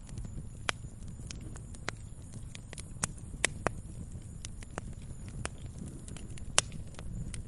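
Wood fire crackling: irregular sharp pops and snaps over a low steady rumble, with the loudest pop near the end.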